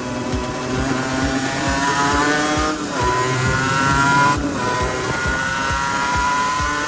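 Small two-stroke single-cylinder motorcycle engine of a Honda NSR50/80 accelerating under load. Its pitch climbs and then drops sharply twice, about three and four and a half seconds in, as it is shifted up through the gears.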